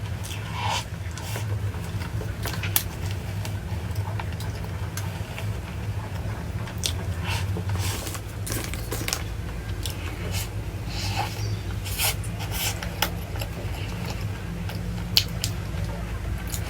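Chewing and biting food: irregular short crunchy clicks over a steady low hum.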